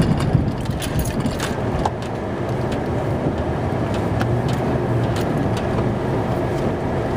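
Snowplow truck's engine running steadily while plowing snow, with scattered faint clicks and knocks over the rumble.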